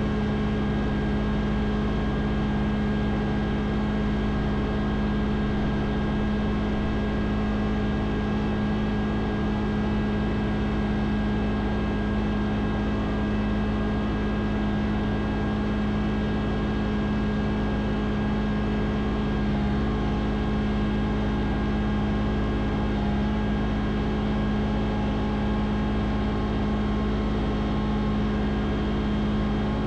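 An engine running steadily at one constant speed, giving an even, unchanging hum.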